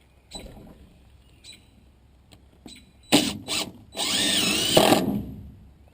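Power drill running in two short bursts, then a steady run of about a second with a wavering whine.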